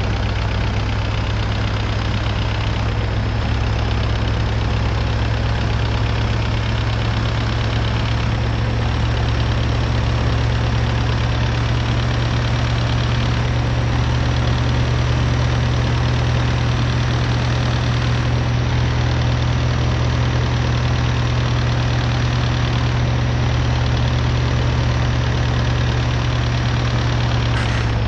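MAZ-241 bus engine running steadily with a strong low hum, heard from inside the bus.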